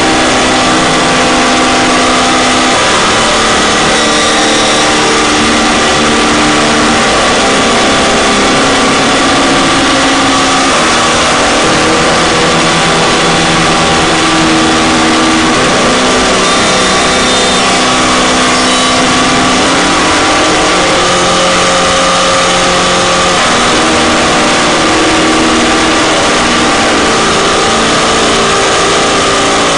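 Harsh noise drone music: a loud, dense wall of distorted noise with held low droning tones that step to new pitches every few seconds.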